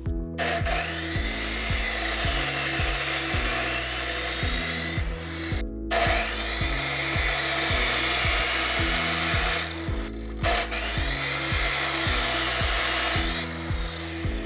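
A hand-held power tool running in three spells of a few seconds each, its pitch dipping and recovering as it works, over background music with a steady beat.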